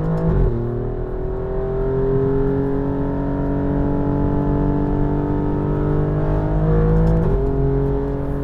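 2018 Alfa Romeo Giulia Quadrifoglio's twin-turbo V6 with a resonator delete, heard from inside the cabin while accelerating. The engine note climbs slowly, with a gearshift just after the start and another about seven seconds in, where the pitch drops.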